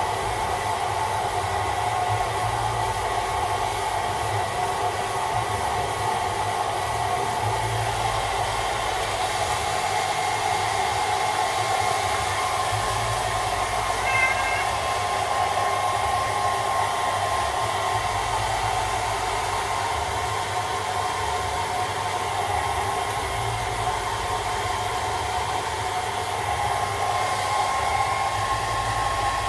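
Handheld hairdryer running steadily, blowing air with a constant whine. A brief high-pitched sound cuts in once about halfway through.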